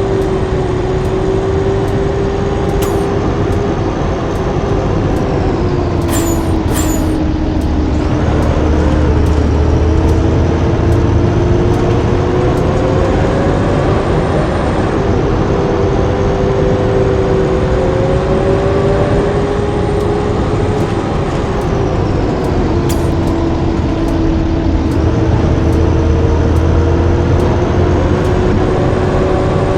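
Blue Bird D3FE bus driving, its engine and drivetrain running with a low rumble and a whine that falls and rises twice as the bus changes speed. A faint regular ticking runs underneath, with a couple of sharp clicks about six to seven seconds in.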